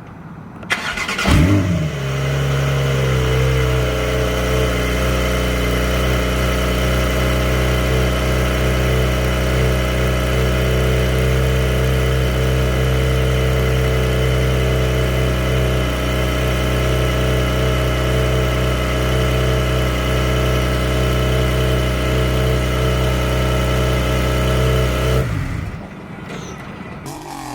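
Cold start of a 2020 Porsche 911 Carrera 4S's 3.0-litre twin-turbo flat-six: the starter cranks briefly, the engine catches with a short rev flare, then settles into a steady idle. It is switched off about 25 seconds in.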